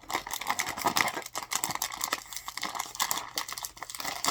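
Plastic snack bag crinkling and crackling as it is handled and pulled at while being opened, a dense run of irregular crackles with no let-up.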